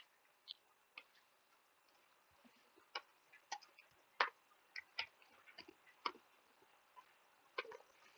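Computer keyboard keystrokes: about a dozen short, sharp clicks at an irregular pace, over a faint steady hiss.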